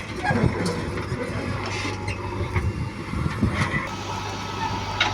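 Heavy diesel machinery engine running steadily, with scattered knocks and clatter over it.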